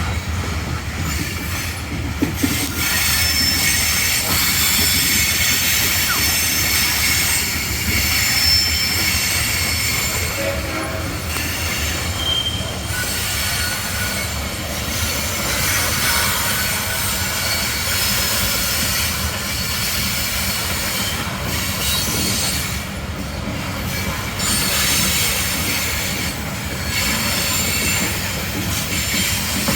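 Kansas City Southern freight train creeping past at a crawl, its steel wheels squealing against the rails in shifting high tones over a steady low rumble.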